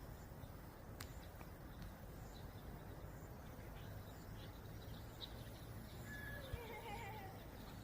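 Wind rumbling on the microphone with faint bird chirps. Near the end comes a single wavering, falling call.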